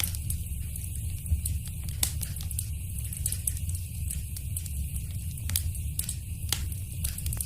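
Wood fire crackling in a fireplace: a low steady rumble under frequent sharp pops and snaps, a few louder ones standing out.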